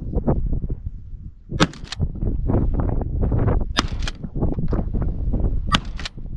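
Shotgun fired three times about two seconds apart, each sharp crack followed closely by a second one, over steady wind rumble on the microphone.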